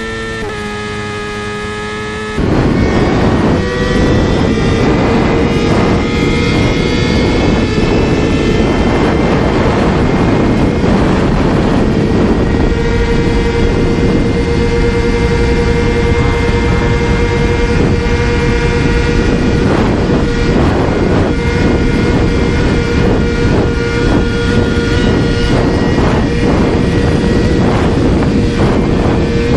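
Motorcycle engine running at a steady high pitch under heavy wind and road noise. A louder clip cuts in about two and a half seconds in.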